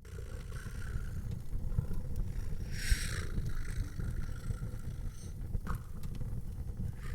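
Fireplace ambience starting up: a steady low rumble of fire with scattered pops and crackles, and a short hiss about three seconds in.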